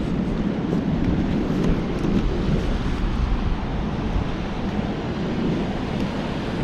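Wind buffeting the microphone in a steady low rumble, with ocean surf washing on the shore beneath it.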